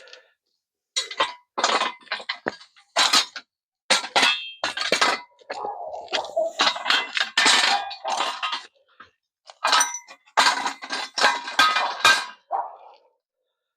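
Metal tools and parts clattering and clinking in irregular sharp knocks, with a longer scraping rattle about halfway through.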